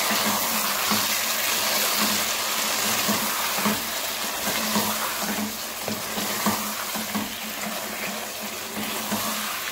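Chicken and yogurt masala frying in a pot, with a steady wet sizzle and a few small scrapes as it is stirred with a spatula.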